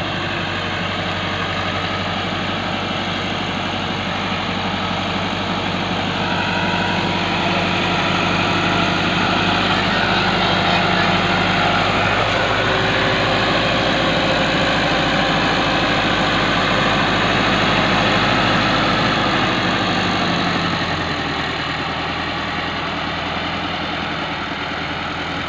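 Tractor diesel engine running steadily, growing a little louder about a third of the way in and easing back down near the end.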